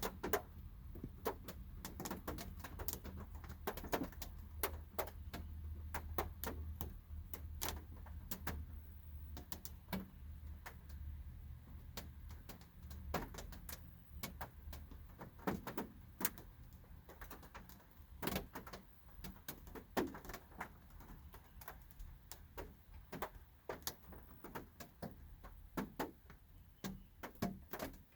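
Light rain heard from inside a car: scattered drops tapping irregularly on the car, dozens of sharp ticks of varying loudness. A low rumble sits beneath and fades about halfway through.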